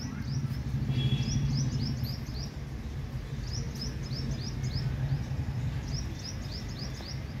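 A bird singing three runs of quick, downward-slurred chirps, each run six to eight notes, over a steady low outdoor rumble.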